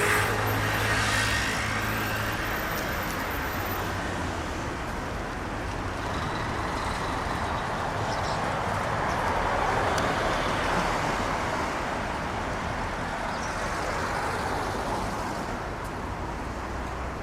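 Road traffic running steadily, with vehicles swelling past near the start and again about ten seconds in.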